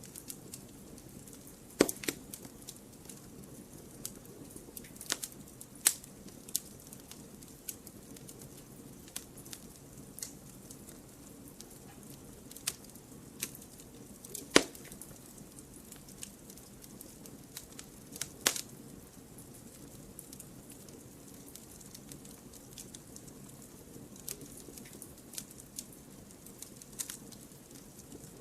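Wood fire burning in a fireplace: a steady low hiss with irregular sharp crackles and pops, the loudest pop about halfway through.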